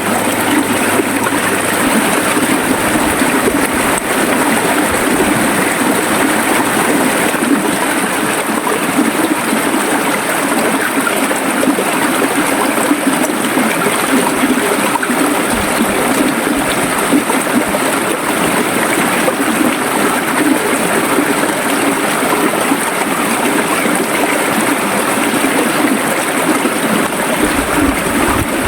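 River water flowing, a steady rushing and gurgling that does not change.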